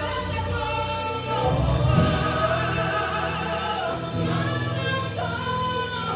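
Worship music: a choir singing a gospel song over a band with bass.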